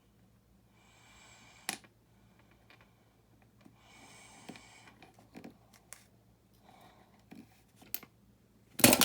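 Small clicks and rustles of hands working a string and plastic building pieces while tying a knot, with two soft hissing stretches and a loud bump near the end.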